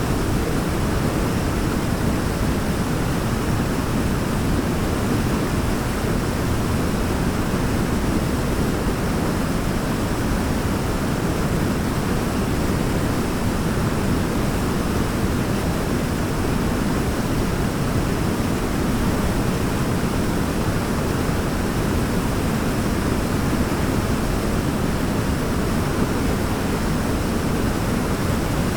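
Waterfall rushing in a steady, unchanging roar of water, deep-toned and even throughout.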